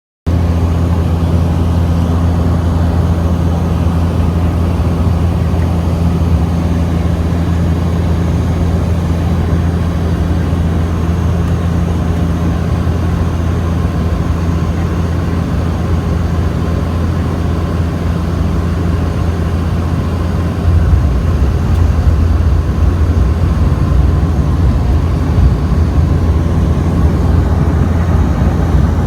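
Bombardier Q400 turboprop heard from inside the passenger cabin: a loud, steady propeller drone with a low hum over rushing noise. About twenty seconds in, the low drone shifts and grows louder, as with a change in engine power.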